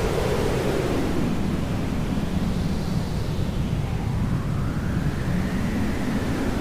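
Hair dryer blowing steadily: a continuous rushing noise whose tone shifts slowly up and down.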